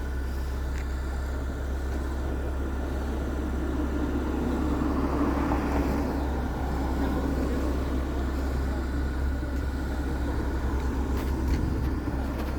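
A car running, with its engine and road noise swelling between about four and eight seconds in and then settling to a steady level.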